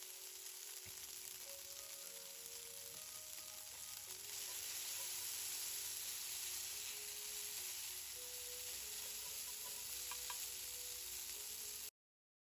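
Food frying on a camp grill: a steady sizzling hiss that grows a little louder about four seconds in, with a faint melody underneath. The sound cuts off to silence near the end.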